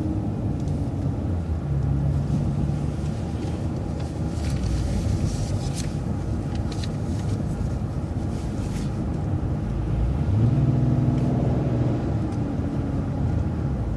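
City transit bus driving along a street: a steady engine hum and road rumble, with the engine tone swelling twice and a few light clicks or rattles midway.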